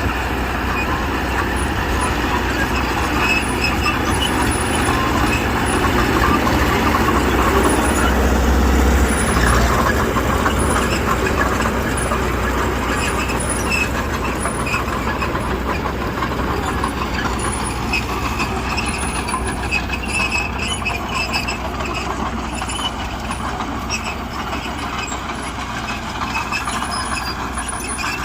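Diesel engine of heavy earthmoving machinery running under work, a steady rumble that swells about eight seconds in and then slowly eases off.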